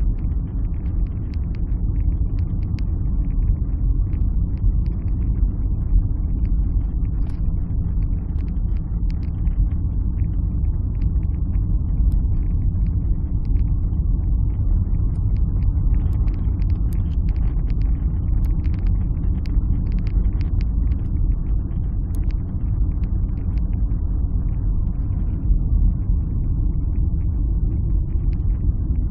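Alfa Romeo 156 on the move, heard from inside the cabin: a steady low rumble of engine and road noise, with faint scattered light ticks.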